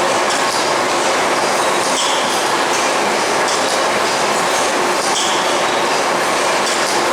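Stationary steam mill engine running: a loud, steady mechanical rush, with a hiss that comes back about every three seconds.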